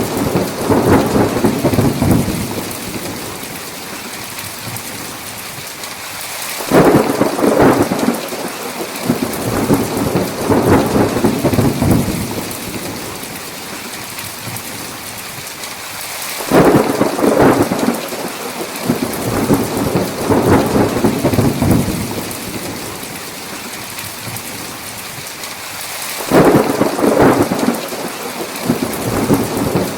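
Steady heavy rain with rolls of thunder. Three rolls start sharply about seven, sixteen and twenty-six seconds in, one about every ten seconds, each rumbling on for several seconds before fading back into the rain.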